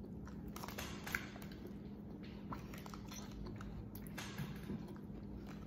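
Faint mouth sounds of chewing a bite of grilled cheese sandwich: soft scattered wet clicks over a low steady hum.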